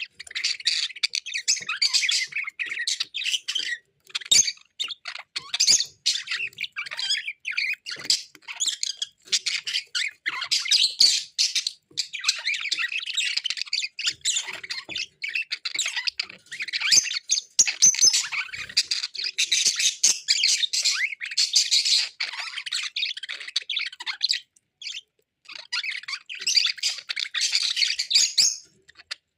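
Male budgerigar warbling and chattering in a fast, rambling stream of chirps and scratchy squawks, with a few short pauses.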